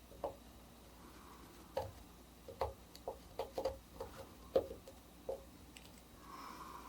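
Etching needle working on a grounded copperplate: a run of small, irregular ticks and scratches, bunched in the middle, then a faint soft scrape near the end.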